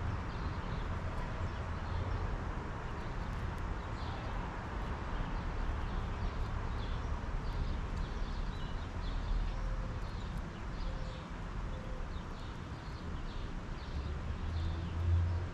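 Suburban garden ambience: a steady low rumble with faint, short bird chirps scattered throughout.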